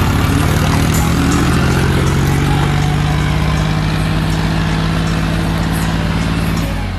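Tractor diesel engine running, a steady drone that drops away shortly before the end.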